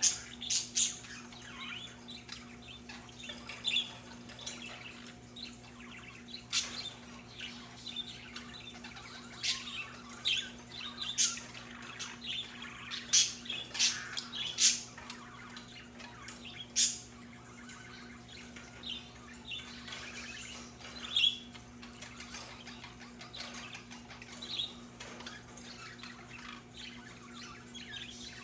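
Budgerigars chirping and chattering in short, scattered calls, with a steady low hum underneath.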